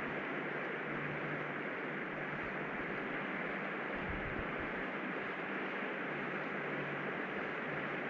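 Steady rushing of flowing stream water, even and unbroken, with a faint low hum underneath.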